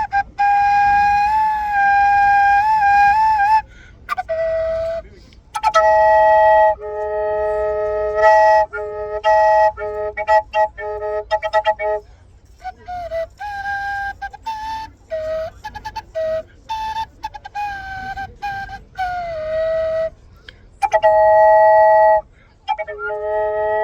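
Two wooden end-blown flutes, a suling and an American Indian drone flute, played together in slow, breathy phrases with short pauses. At first a single melody line wavers; from about six seconds in, a steady lower drone note sounds under a higher moving melody.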